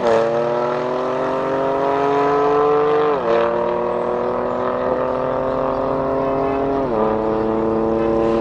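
Modified BMW M3 F80 with Stage 2+ remap and Milltek exhaust, its twin-turbo straight-six, accelerating hard away alongside a second car. The engine note climbs slowly through each gear, with quick upshifts at the start, about three seconds in and about seven seconds in.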